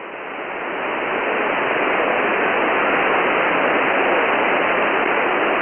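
Shortwave receiver hiss between transmissions: 10-metre band static heard through a single-sideband receiver, an even noise with nothing above about 3 kHz. It swells over the first two seconds as the receiver's automatic gain recovers after the strong signal, then holds steady.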